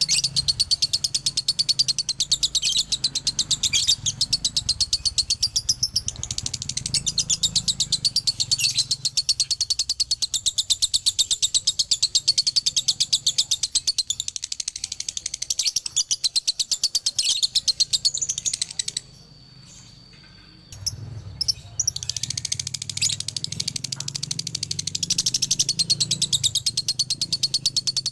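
Male lovebird chattering in a long, fast stream of shrill chirps, the extended 'ngekek' trill that keepers call dobelan. It breaks off for about two seconds past the middle, then carries on.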